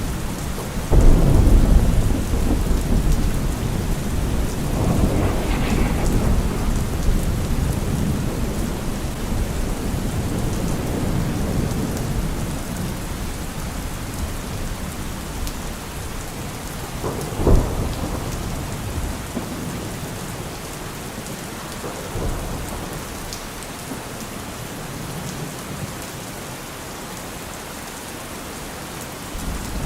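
Heavy rain falling steadily on a car roof, with thunder. A loud rumble breaks about a second in and rolls on for several seconds, a sharp crack comes a little past halfway, and the rumbling then fades away.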